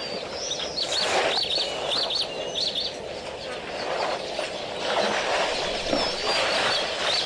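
Small birds chirping in quick runs of short high notes, one spell of about a second and a half and a shorter one later, over a steady hiss of outdoor background noise.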